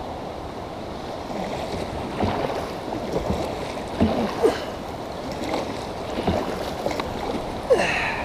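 Kayak paddle strokes splashing in creek water: several irregular splashes over a steady rush of moving water.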